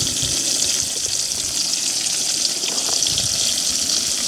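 Tomatoes frying in melted salted lard in a skillet: a steady, even sizzle with faint crackling.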